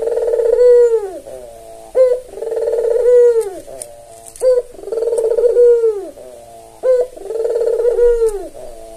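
Albino domestic turtle dove (burung puter) cooing, the call used as a lure to get other doves to coo. Its call repeats about every two and a half seconds, four times: each is a short sharp note followed by a long rolling coo that drops in pitch at the end.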